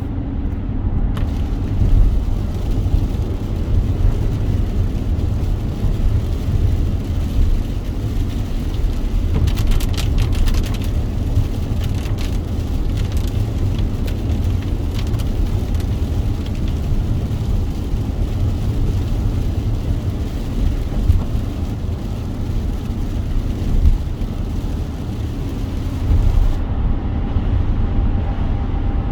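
Car driving on a wet road in the rain: a steady low road rumble under an even hiss of rain and tyre spray. The hiss falls away about 26 seconds in, leaving the rumble.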